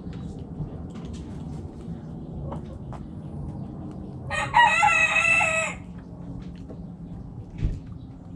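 A rooster crows once, one call of about a second and a half in the middle, the loudest sound here. Around it run the steady low murmur and scattered short clucks of the hens, with a brief low thump near the end.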